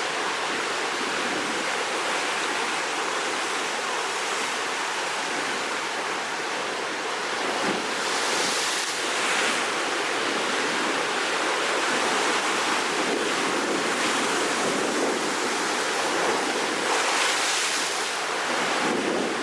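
Rough sea surf before a typhoon: waves breaking and washing in without a break, with louder crashes about eight seconds in and again near the end.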